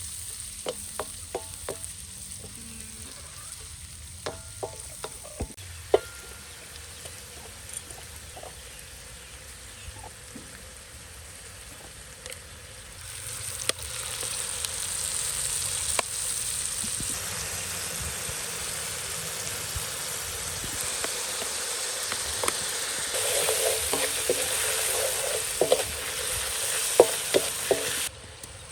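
Food sizzling as it fries in hot oil in a pan, with scattered clicks and taps of a utensil stirring against the pan. The sizzle gets louder about halfway through and again near the end, then cuts off suddenly.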